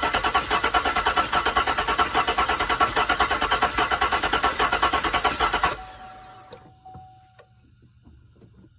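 2015 GMC Sierra's 5.3-litre V8 idling with a steady, rhythmic pulsing, the engine running with a misfire on cylinder 7, then shut off about six seconds in, leaving a few faint ticks.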